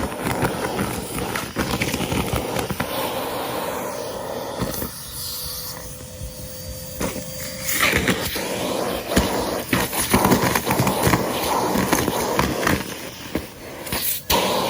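Henry cylinder vacuum cleaner running and sucking up crunchy debris, with many sharp clicks and crackles as bits rattle up the hose. It goes quieter for a few seconds in the middle, then louder again.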